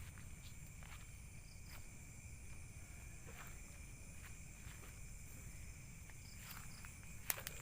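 Steady chorus of night insects such as crickets, holding two high even trills, over a low steady rumble. Scattered soft clicks, with one sharp click about seven seconds in.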